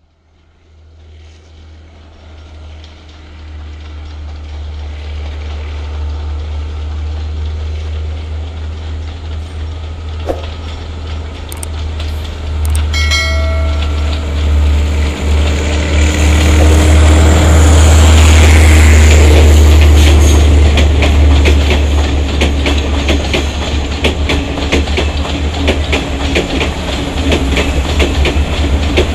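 Diesel passenger train approaching and passing. It grows steadily louder to a peak past the middle, with a deep engine drone and the clickety-clack of wheels over rail joints, and a brief horn note about halfway through.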